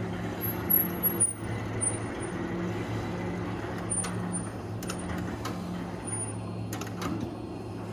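An engine running steadily at idle, a low even hum, with faint high chirps and a few sharp clicks in the second half.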